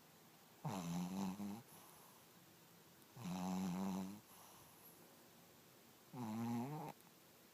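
A Pekingese–Chihuahua mix dog snoring: three snores with a clear pitch, each about a second long and spaced roughly two and a half seconds apart, the last one a little shorter.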